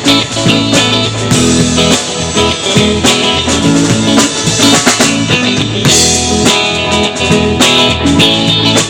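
Live band playing an instrumental passage with electric or acoustic guitar, bass and drum kit, at a steady beat.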